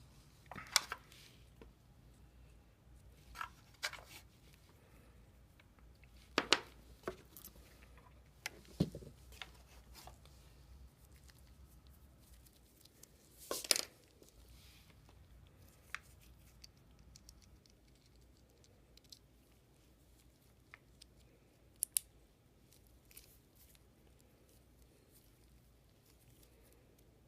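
Scattered sharp clicks and taps of small metal parts of a Leibinger numbering machine being handled and fitted, with a brief scraping rustle about halfway through.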